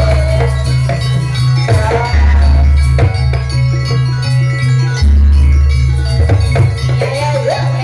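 Jaranan ensemble music playing loudly: heavy drum and gong beats under a melody line that slides up and down in pitch.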